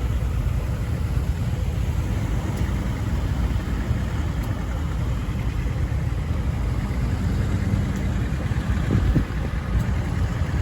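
Tractor engine running steadily, a continuous low rumble.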